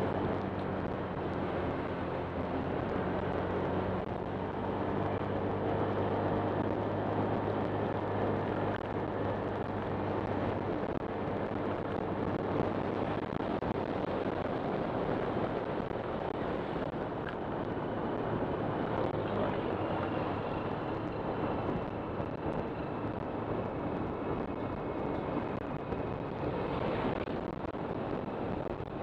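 Honda Click 125 scooter's single-cylinder engine running under way, mixed with wind and road noise on the camera microphone. The engine's steady low note is clear for about the first ten seconds, then sinks mostly into the wind rush.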